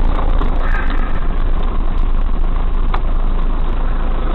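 Steady car engine and road noise inside a moving car, picked up by a dash camera, with a single click about three seconds in.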